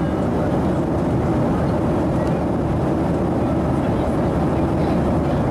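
Steady in-flight cabin noise of a Boeing 737-700: airflow and jet engine noise, a constant low rushing hum with no change in level.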